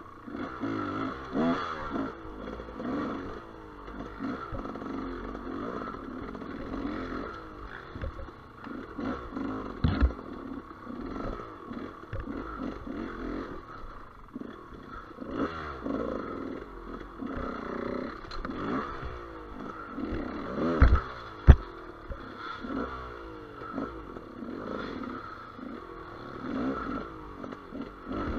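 GasGas EC200 two-stroke enduro motorcycle being ridden off-road, its engine revving up and falling back again and again as the throttle is worked. A few sharp knocks and some clatter come through, two loud ones close together late on.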